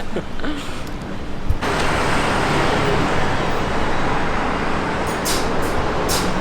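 City street traffic noise: a steady rush of passing road vehicles, which becomes suddenly louder and denser about a second and a half in. A run of short, crisp ticks comes near the end.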